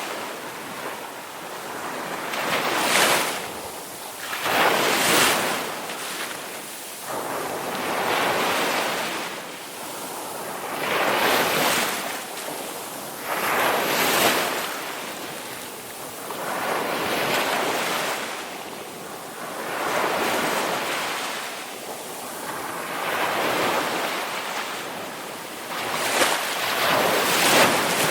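Ocean waves breaking on a shore, a surge of surf swelling and washing back roughly every two to three seconds.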